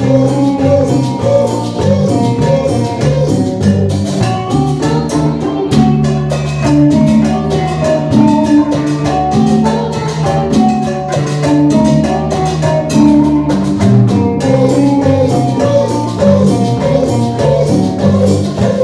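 Live band playing an instrumental Latin dance passage: a quick melody over a steady bass line and percussion.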